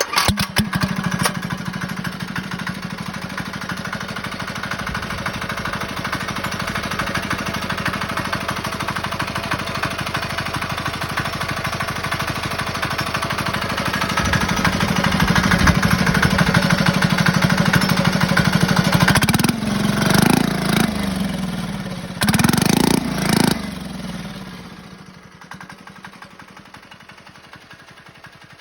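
196cc single-cylinder diesel engine catching at once on a pull start and running steadily. It surges louder twice briefly, about 20 and 23 seconds in, then dies away about 25 seconds in.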